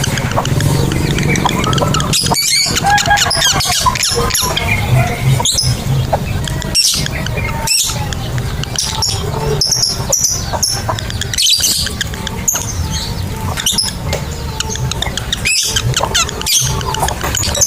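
Lovebird chattering ('ngekek'): a long run of rapid, high, squeaky chirps and trills that keeps going, over a steady low hum.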